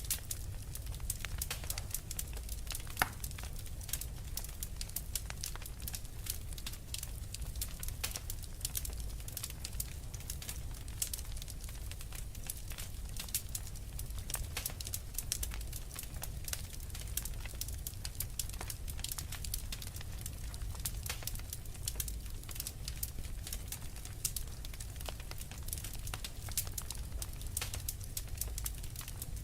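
Fireplace fire crackling: a dense, irregular run of sharp pops and snaps over a steady low rumble of the flames, with one louder pop about three seconds in.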